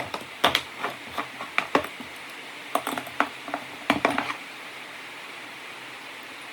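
Irregular light clicks, clinks and knocks of small parts and tools being handled, stopping after about four seconds, followed by a steady low hiss.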